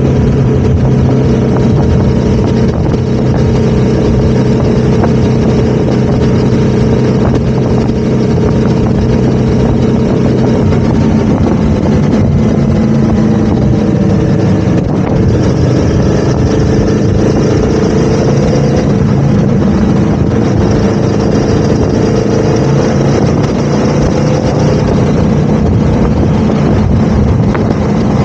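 Motorcycle engine running steadily on the move. About eleven seconds in the pitch drops and bends as the rider eases off, then it climbs back and holds steady again.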